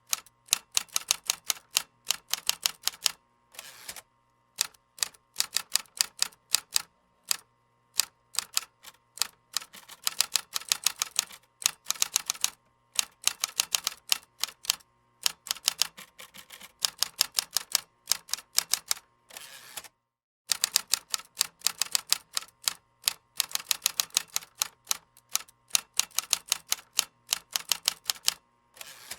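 Computer keyboard being typed on: fast runs of key clicks, broken by short pauses, with a brief full stop about twenty seconds in.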